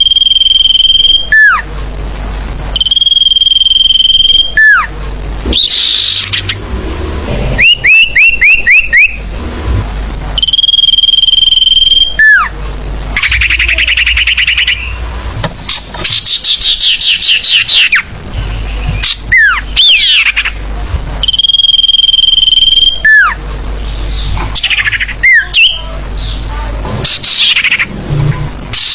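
Loud recorded song of the sirfu, a small songbird, played as a lure call. Phrases repeat every few seconds: a high, steady whistled note held for over a second that ends in a quick downward slur, alternating with fast runs of short rising notes and rapid chattering trills.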